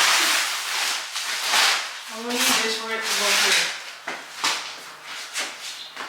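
Handling noises: bursts of rustling or scraping. A short voice is heard in the middle, then a few light knocks near the end.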